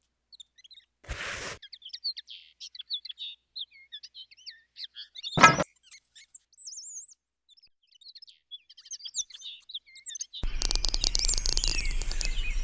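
Small birds chirping and tweeting, with a single sharp knock about halfway through. Near the end a small motor starts running with a dense, rapid rattle and a low hum.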